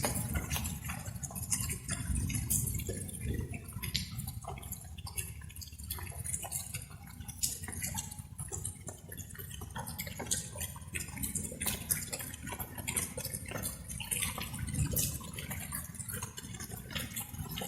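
Light rain: irregular raindrops falling in quick, uneven ticks over a steady low rumble.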